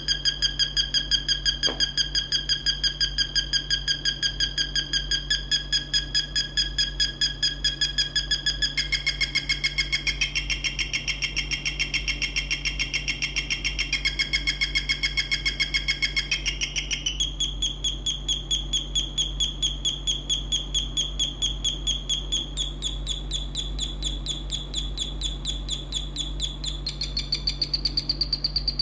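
Electronic bird-chirp sound generator circuit chirping rapidly and evenly, about four chirps a second. The artificial chirp shifts pitch in steps every few seconds, over a constant low mains-like hum.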